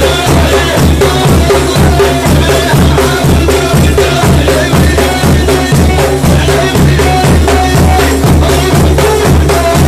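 Sufi dhikr music: drums beating a steady rhythm of about two beats a second, with a voice chanting over them.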